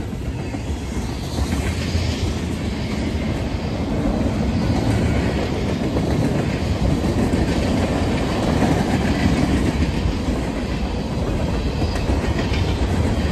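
Cars of a BNSF manifest freight train, auto racks among them, rolling past close by: a steady rumble of steel wheels on the rails that grows a little louder through the middle.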